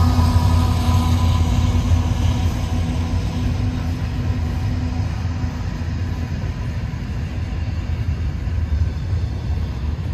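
Freight train passing close by: the diesel locomotive's engine drone fades out over the first few seconds as it moves away, leaving the steady low rumble of double-stack container well cars rolling along the rails.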